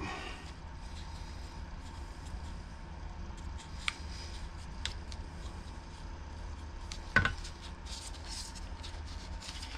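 Light clicks and taps from handling a small two-stroke carburetor and tools, with one sharper knock about seven seconds in and some rustling near the end, over a steady low hum.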